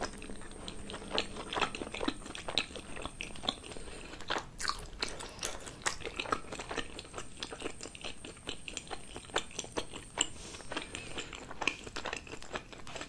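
Close-miked chewing of a steamed momo dumpling with the mouth closed: a steady run of small, irregular mouth clicks and smacks.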